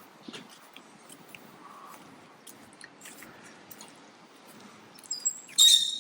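Rain falling, heard as scattered sharp ticks and taps of drops. Near the end comes a loud, short, high-pitched squeak.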